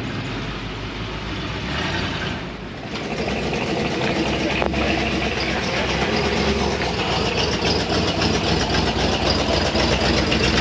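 Vehicle engines running at a truck show, with voices in the background; the engine sound grows louder about three seconds in.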